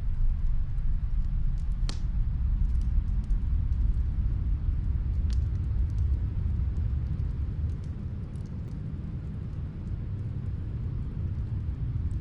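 Steady low rumble of snowstorm wind, with faint, sparse crackles from a wood fire, the loudest about two seconds in.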